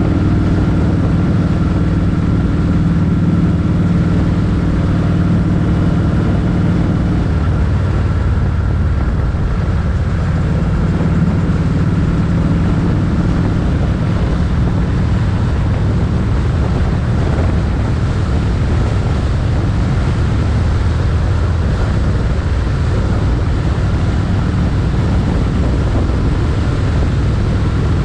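Motorcycle engine running under way, with wind rushing loudly over the microphone. The engine note is plain for the first several seconds, then sinks under the wind noise.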